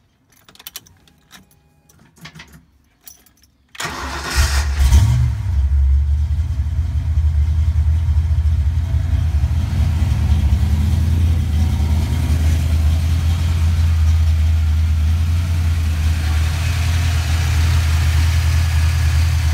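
Ford 5.0-litre (302) small-block V8 with a Trick Flow cam on its first start. A few faint clicks come first. About four seconds in the engine catches, flares up in revs briefly and settles into a steady idle.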